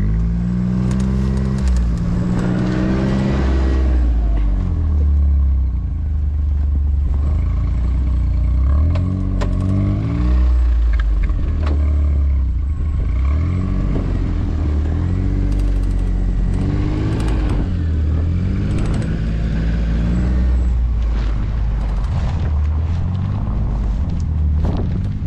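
Vehicle engine running under load in deep snow, its pitch rising and falling again and again as it revs up and eases off.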